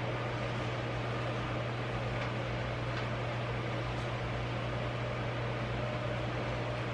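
Steady machine hum with an even hiss, unchanging throughout, with a few faint ticks.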